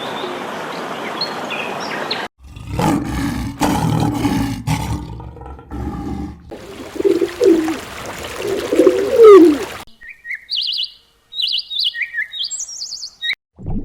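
A series of different animal calls: for several seconds low, rough, drawn-out calls with sliding pitch, then, after a brief gap, quick high chirping calls near the end.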